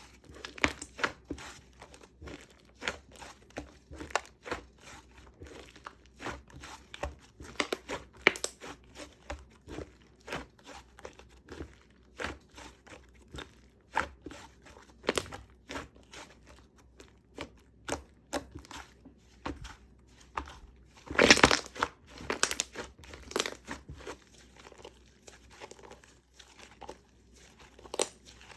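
Black slime mixed with shaving foam being squeezed and pressed by hand, giving a steady run of short crackling clicks and pops, with a louder, longer crackling burst about three-quarters of the way through.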